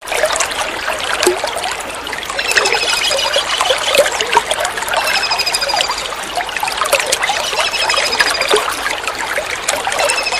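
Steady trickling water, with a kingfisher calling over it: a short, rapid series of high notes repeated about every two and a half seconds, four times.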